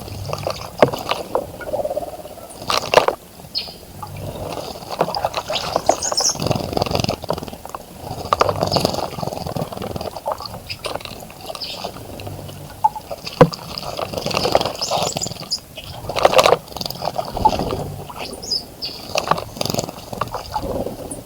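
Birds bathing in a bird bath: irregular splashing and wing-flapping in the water, with short high bird chirps over it.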